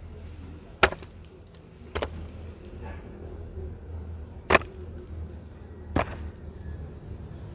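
Wood being chopped with a blade: four sharp strikes spaced a second or more apart, with a longer gap before the third.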